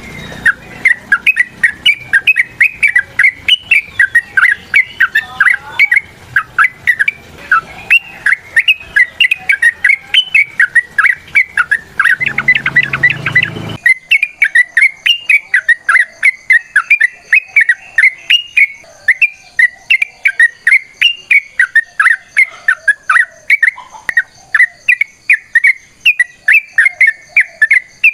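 Yellow-vented bulbul (trucukan) singing a long, unbroken run of quick, bubbly chirping phrases, about two to three loud notes a second. A low background hum under the song cuts off abruptly about halfway.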